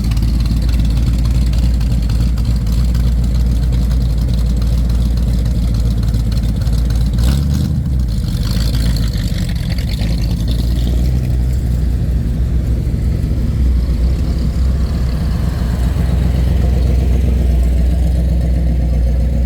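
A car engine running steadily with a deep, even rumble, with a brief change in the rumble about seven and a half seconds in.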